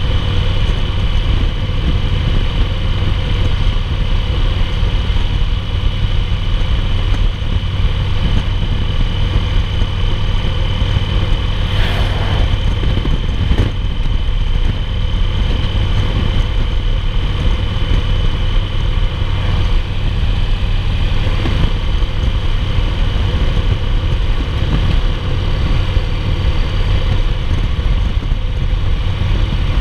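A 2008 Yamaha Roadliner's air-cooled V-twin engine running steadily at highway cruising speed, heard from a camera on the moving bike with wind and road noise. Two brief knocks about halfway through.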